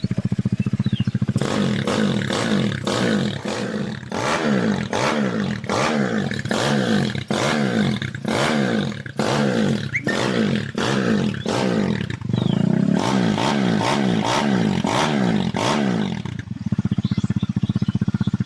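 Bored-up 260cc Honda Tiger single-cylinder engine with a Jaguar 250 cylinder head, test-run off the bike: idling steadily, then revved in quick repeated throttle blips, about one to two a second with one longer rev, before settling back to idle near the end.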